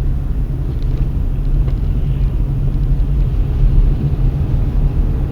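Steady low rumble of a car driving along, engine and road noise.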